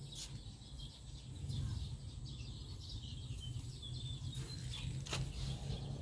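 Small birds chirping over a steady low background rumble, with a couple of light clicks, one just after the start and one about five seconds in.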